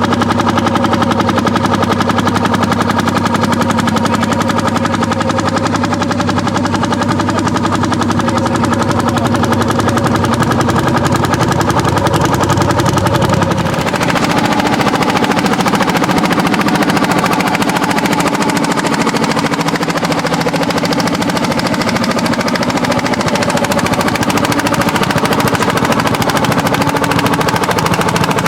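Vintage Landini tractors' single-cylinder two-stroke hot-bulb (testa calda) engines running hard while plowing, a rapid, knocking exhaust beat. The engine note shifts abruptly about halfway through.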